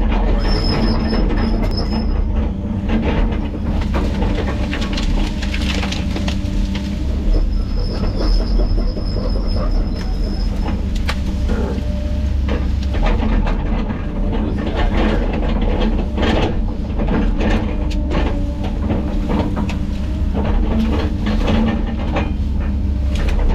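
Hydraulic excavator working under load, its diesel engine running steadily, with repeated knocks and clatter as brush and logs are grabbed and moved. A thin high squeal comes twice, near the start and again about a third of the way in.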